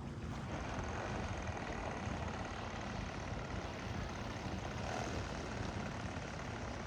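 Small weed eater (string trimmer) engine, rigged as a kayak's outboard motor, running steadily.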